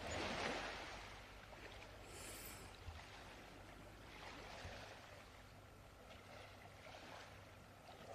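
Faint, soft rushing of sea waves, swelling and fading every couple of seconds, over a low steady hum.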